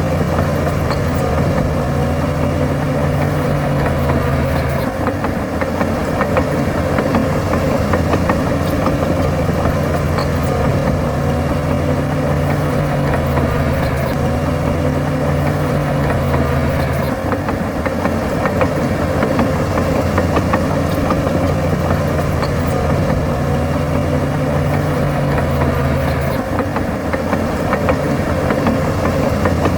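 Heavy diesel engine of earthmoving machinery running steadily. Its note changes briefly about 5, 17 and 26 seconds in.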